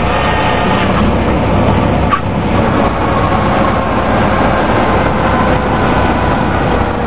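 Cessna light aircraft's piston engine and propeller running steadily, heard inside the cockpit as a loud, even drone.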